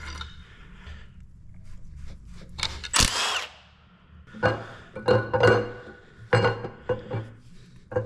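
A power tool working on the camshaft retainer bolts of a 6.0L Powerstroke diesel engine. A short burst with a brief whir comes about three seconds in, followed by a run of irregular metallic clanks and rattles.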